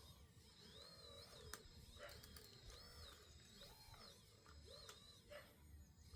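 Faint birds chirping, short curved calls repeating about once a second over a low background rumble.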